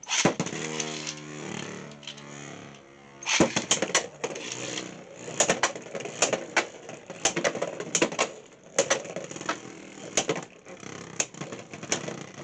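Beyblade X tops launched into a plastic stadium: a whirring spin whose pitch slowly falls, then from about three seconds in a rapid run of sharp clicks and clacks as the tops hit each other and the stadium walls.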